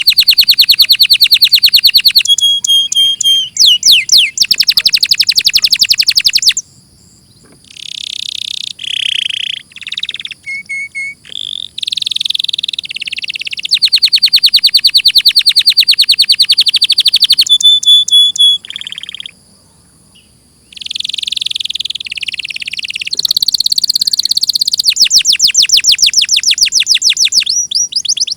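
Domestic canary singing: long, very fast trills of rapidly repeated notes alternating with short whistled notes and quick sweeps, broken by two brief pauses.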